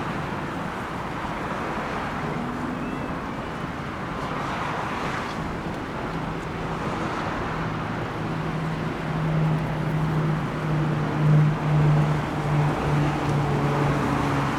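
Steady rush of road traffic and wind. A low steady hum, like an engine, comes in about halfway through and grows louder near the end.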